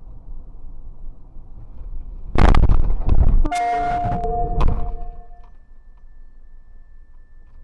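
Car collision: a steady low road rumble, then a loud crash about two and a half seconds in, followed by a held pitched tone for about a second and a second knock before the noise dies down.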